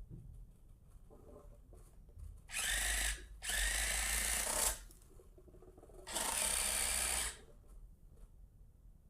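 Small electric gear motors of a Hobby Engine HE0715 RC track loader whirring in three bursts, a short one followed by two longer ones, with a high gear whine. Low hum between the bursts.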